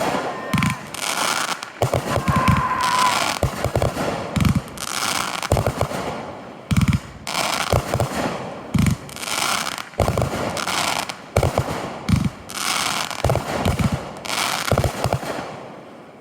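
Consumer aerial fireworks going off in quick succession: sharp bangs with crackling after them, coming in clusters every second or two.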